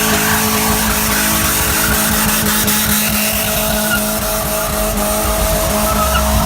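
Car engine revved up and held at high, steady revs over a continuous hiss of spinning, squealing tyres, as in a burnout.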